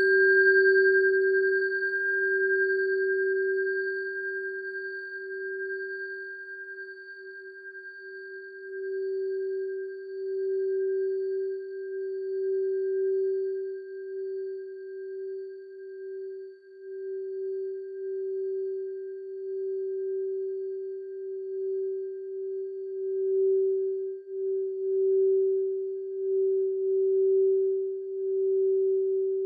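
Singing bowl tuned to G, struck right at the start and left ringing: a steady low tone that swells and wavers in slow pulses, with higher overtones that fade away over about twenty seconds.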